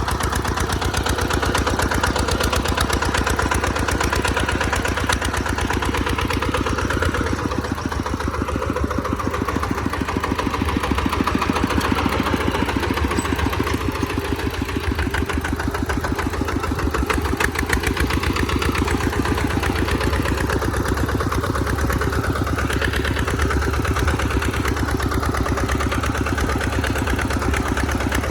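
Tractor engine running steadily with an even, rapid firing beat and no change in speed.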